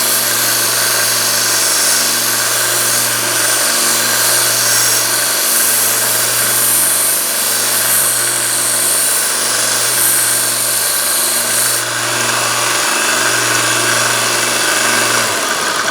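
Small 1-inch belt sander with a 120-grit belt running, grinding steel pliers jaws to reshape them: a steady motor hum under a loud grinding hiss that swells and changes as the metal is pressed to the belt.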